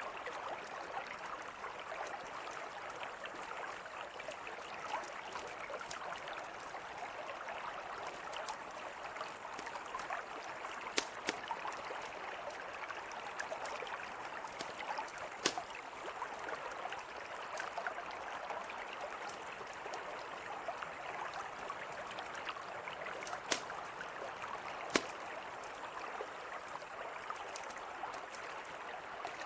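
A mountain river flowing in a steady rush, with a campfire crackling over it: a few sharp pops scattered through the stretch.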